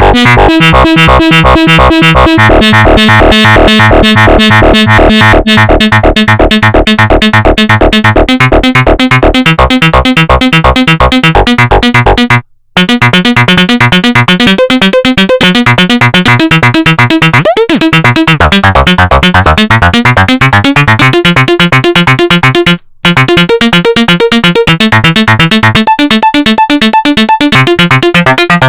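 Make Noise 0-Coast synthesizer playing a loud, fast arpeggiated sequence of rapidly repeated notes. It cuts out briefly twice, and past the middle the tone swoops down and back up before the pattern carries on.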